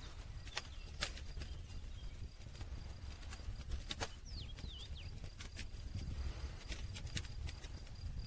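Campfire burning, with irregular sharp crackles and pops of the wood over a low, steady rumble of the flames. A few short high chirps come around four seconds in.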